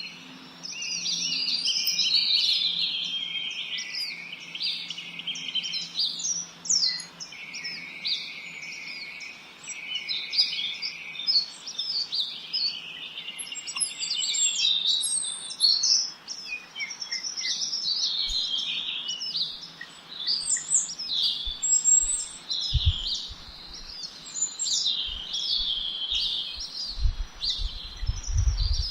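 Several small songbirds chirping and twittering together in a busy, overlapping chorus of quick high notes. Low thumps come in near the end.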